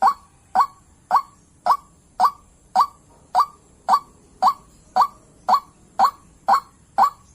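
White-breasted waterhen (ruak-ruak) call: a short, clipped note repeated evenly about twice a second in a long monotonous series.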